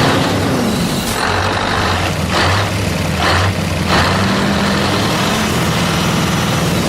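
Truck engine running steadily, with three short hisses of air about two, three and four seconds in.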